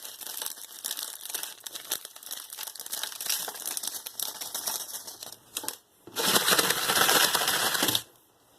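Plastic ramen packaging crinkling and rustling as it is handled, in irregular crackles. About six seconds in, a loud steady rushing noise starts and cuts off abruptly two seconds later.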